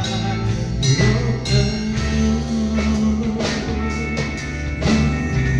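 Band playing an instrumental passage between sung lines: drum kit, bass and guitar.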